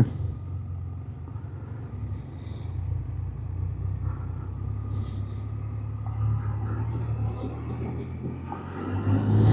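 Can-Am Spyder three-wheeled motorcycle's engine running as the bike pulls away and rides on, with a steady low engine note that swells slightly about six seconds in and again near the end.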